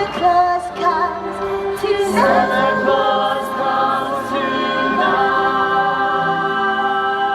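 Stage-show music with several voices singing; the voices settle into a long held note in the second half.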